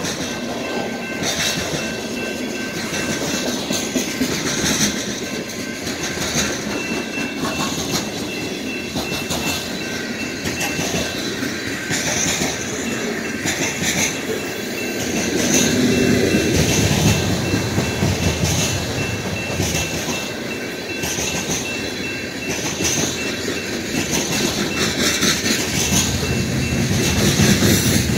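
Freight train of covered hopper cars rolling past: a steady rumble of steel wheels on the rails with repeated clicks as the wheels cross rail joints. The rumble swells about halfway through and again near the end.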